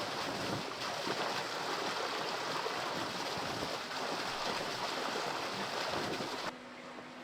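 Running water, a steady rushing that cuts off suddenly about six and a half seconds in, leaving a quieter background with a faint low hum.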